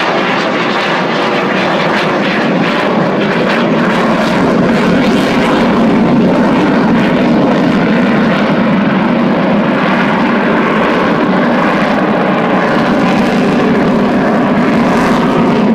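Eurofighter Typhoon FGR4's twin EJ200 jet engines, loud and steady during a display pass. The noise builds slightly over the first few seconds, then holds.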